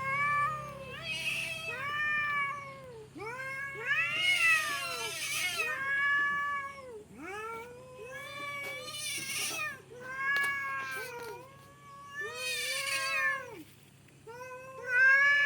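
Domestic cats caterwauling at each other in a fight standoff: long, drawn-out yowls that rise and fall in pitch, one after another with short breaks.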